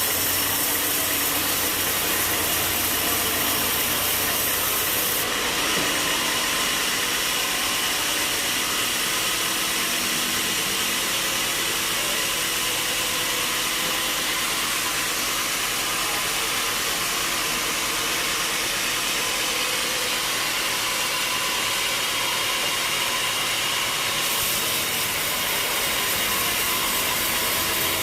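Sawmill machinery running steadily, a dense mechanical noise with a strong high hiss and no breaks.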